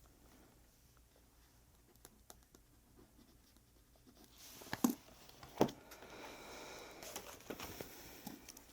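Pen scratching on paper with light clicks, then paper rustling and handling with two sharp knocks about five seconds in, the loudest sounds here.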